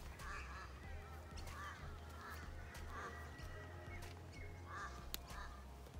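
A bird calling repeatedly in a loose series of short calls, with low wind rumble on the microphone underneath.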